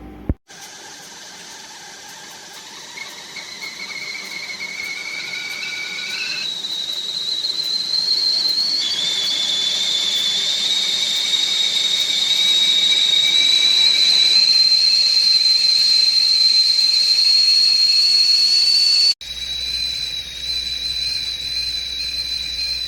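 Stainless steel stovetop whistling kettle whistling as its water comes to the boil. The whistle rises in pitch and loudness over about the first 12 seconds, with a few sudden jumps in pitch, then holds a steady, loud, high whistle. It cuts off abruptly about 19 seconds in and carries on quieter.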